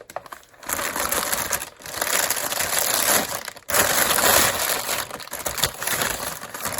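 Packaging rustling and crinkling as it is handled, in several loud stretches with short pauses between them.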